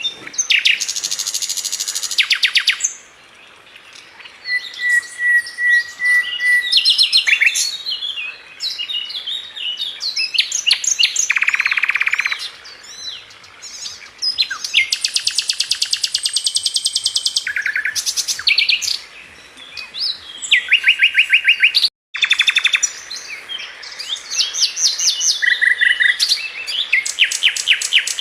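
A Sikatan London flycatcher singing a loud, varied song of fast trills and short whistled phrases, with very brief pauses between phrases.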